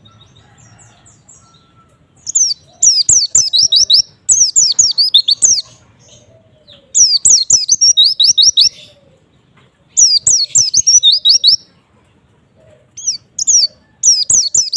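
White-eye (pleci) singing: fast, high twittering phrases of quick sliding notes, each phrase about a second long, repeated after short pauses.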